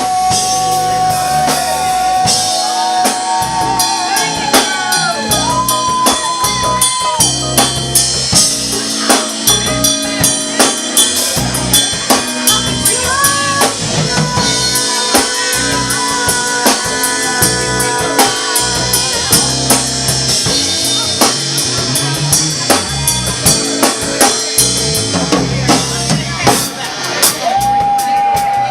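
Live band music: a drum kit keeps a steady beat under bass and held, sliding melody notes, with no words sung.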